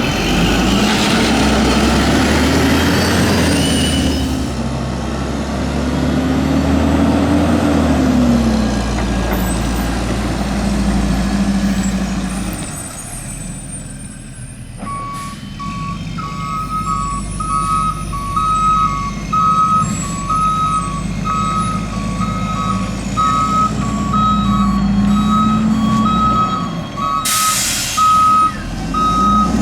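Mack LE garbage truck with an automated side-loader body: the engine revs up and down several times, then a reversing alarm beeps steadily from about halfway in. Near the end there is a short, loud air-brake hiss.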